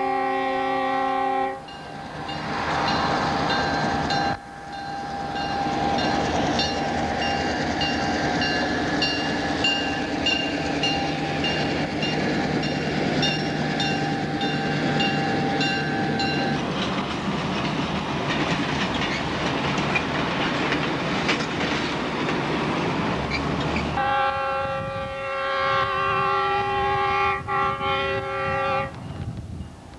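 Diesel freight locomotive air horn sounding a chord of several notes, cut off about a second and a half in. The train then passes with engine rumble, wheel noise and a rapid regular ringing that stops about halfway through, followed by a steadier rushing noise. The horn chord sounds again for about five seconds near the end.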